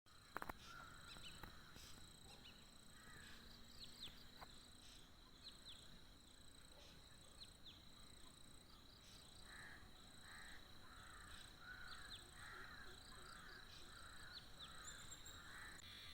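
Faint outdoor birdsong: short high chirps scattered throughout, and from about ten seconds in a run of rough calls about two a second, over a steady high-pitched whine.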